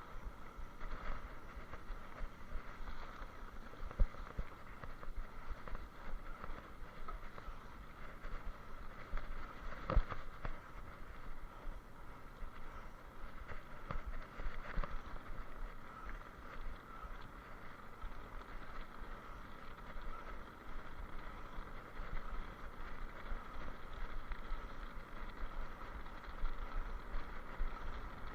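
Steady wind rush and rolling noise on a rider's microphone, with a constant whir. A couple of sharp knocks, the loudest about ten seconds in, as the ride goes over rough ground.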